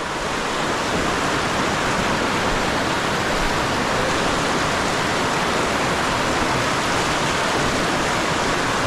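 Steady rush of river current flowing over rocks, a dense even hiss with no breaks.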